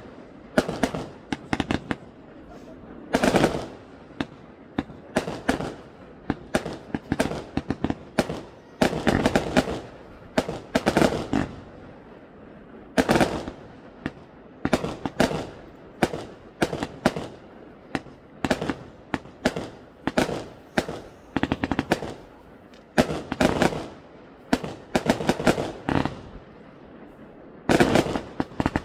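Aerial fireworks going off: a rapid, irregular run of bangs and crackling volleys, several bursts a second at times, with booming rumble carrying between them.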